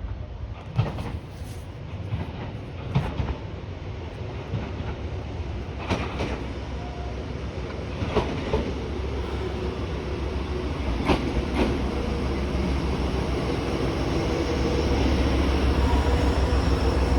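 JR Hokkaido H100 series diesel-electric railcar running, with scattered clicks and knocks from the wheels and a low rumble that grows louder through the second half.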